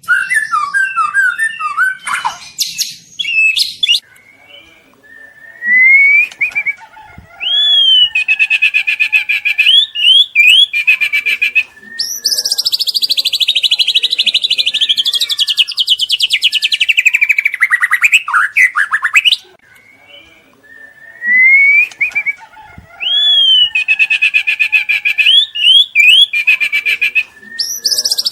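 Juvenile white-rumped shama (murai batu trotol) singing loudly in phrases separated by short pauses. The song has rising whistles, rapid trills and, about 12 seconds in, a long falling chattering run. The same run of phrases repeats about 16 seconds later.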